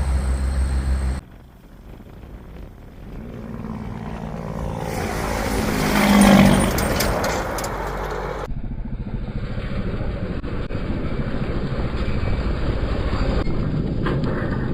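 Vehicle engines running, with abrupt changes: a steady engine hum stops about a second in, then a vehicle approaches, passes loudest about six seconds in and fades, followed by a steadier engine or machinery noise.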